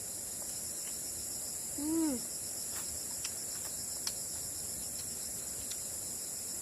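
Steady high-pitched insect chorus with a fast pulsing trill, like crickets. A short, arched voice sound comes about two seconds in, and a few faint clicks are scattered through.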